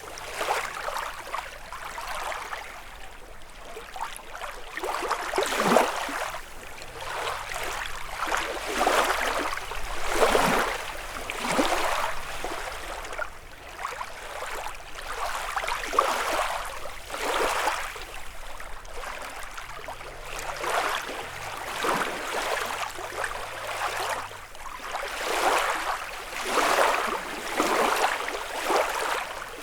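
Small lake waves lapping and splashing against the shore, in irregular surges every second or two.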